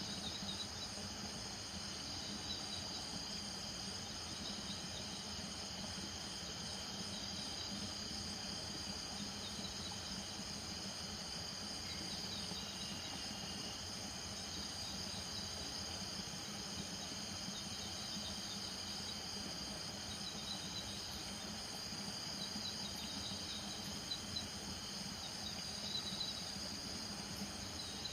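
Night chorus of crickets and frogs: a steady high cricket trill with short repeated calls among it and a low steady hum of calling frogs underneath.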